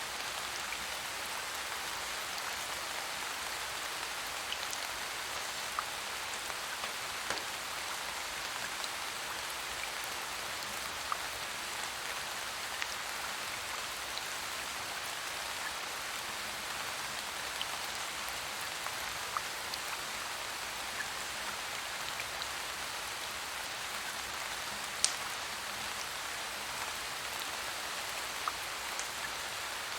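Steady rain falling, an even hiss with scattered sharp ticks of drops; one louder tick stands out about 25 seconds in.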